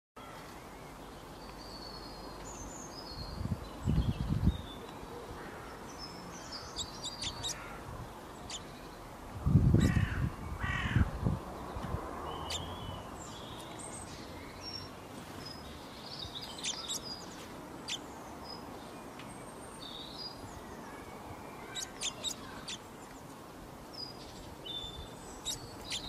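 Small garden birds chirping and calling in short high notes, with sharp clicks now and then. Two spells of loud low thumps come about four and ten seconds in.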